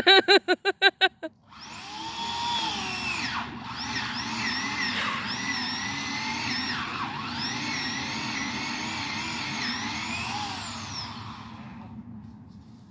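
A rapid run of about seven short pulses in the first second, then a two-stroke chainsaw running for about ten seconds, its pitch rising and falling as the throttle is worked, fading away near the end.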